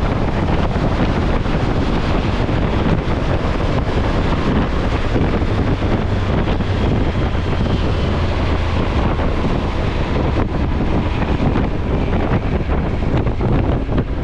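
Wind buffeting the microphone: a steady, loud rumbling noise with no let-up.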